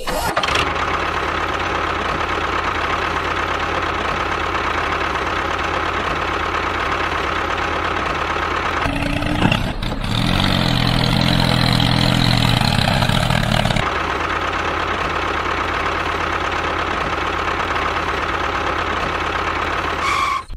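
An engine running steadily, like idling, with a louder, busier stretch lasting about five seconds from roughly nine seconds in.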